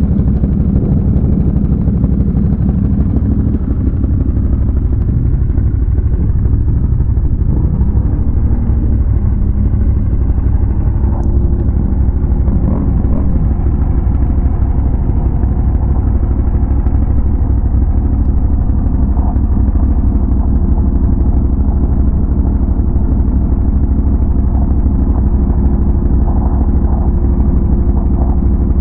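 ATV engine running steadily while riding, heard close up, with a steady low hum; a higher steady tone joins about eleven seconds in.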